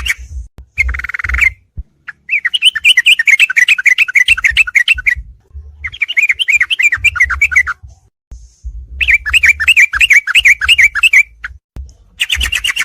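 Yellow-vented bulbul (trucuk) song from a masteran tutoring recording: rapid chattering phrases of quick chirps, repeated in bursts of one to three seconds with short pauses between.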